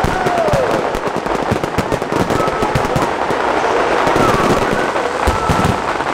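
Fireworks going off in a dense, irregular barrage of cracks and pops, with several falling whistling tones mixed in.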